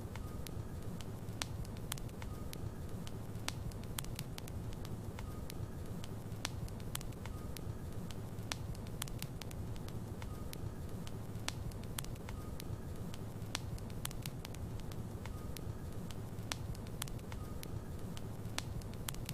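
Wood fire burning in a fireplace: a steady low rumble of flame with frequent, irregular sharp crackles and pops from the logs.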